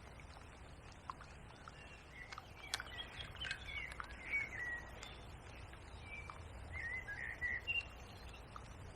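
Small birds chirping in a series of short twittering calls, mostly from a few seconds in until near the end, over a steady low outdoor background noise.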